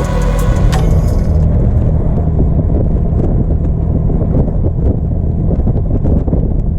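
A car engine running with a steady low rumble, with music fading out in the first second.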